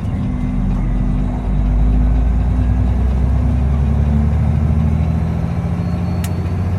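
Peterbilt semi truck's diesel engine running with a deep, steady drone that grows louder about a second and a half in, with a faint high turbo whistle above it. A single sharp click near the end.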